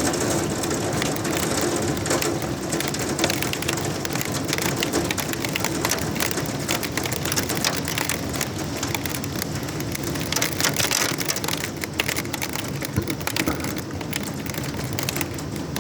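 Heavy thunderstorm rain falling steadily, with a dense patter of close drop hits.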